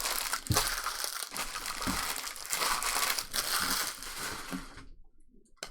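Crinkly trading-card pack wrappers being crumpled and handled, a dense crackling rustle that stops about five seconds in. A single sharp click follows near the end.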